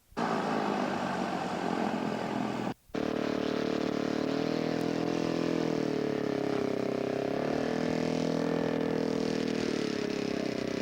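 Radio-controlled model airplane engine running steadily, its pitch dipping and rising a little. The sound cuts out abruptly at the very start and again about three seconds in.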